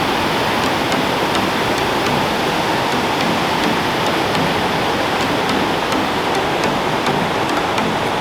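A waterfall pouring close by: a steady, loud rush of falling water, with faint splashing ticks.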